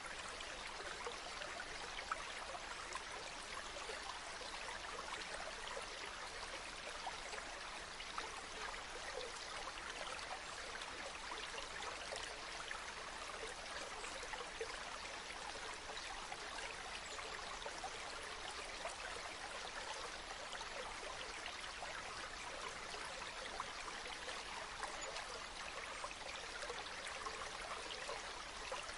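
Small stream running steadily, a continuous trickling and babbling of water with fine, quick splashes.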